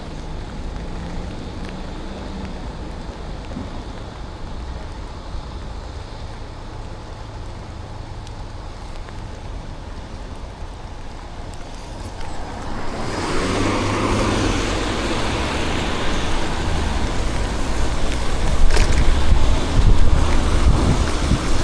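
City street traffic noise heard from a moving bicycle, a steady low rumble. About thirteen seconds in it swells into a louder rushing noise that keeps building, with one sharp click near the end.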